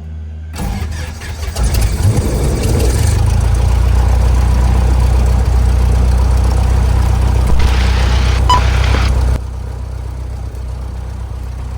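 Cessna 172R's four-cylinder Lycoming IO-360 engine being started. The starter cranks it raggedly for about a second and a half, then it catches and runs steadily. The level drops suddenly near the end.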